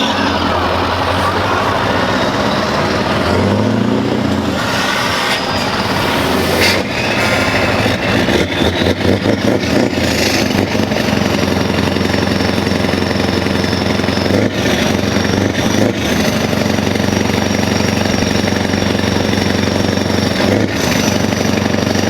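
Scania R500 truck's V8 diesel running loud through its exhaust pipes, revved briefly a few times in the first half, then running steadily.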